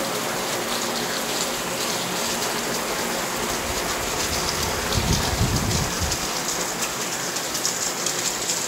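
Heavy rain falling on wet paving, puddles and garden plants, a steady hiss of drops. About five seconds in there is a brief low rumble lasting roughly a second.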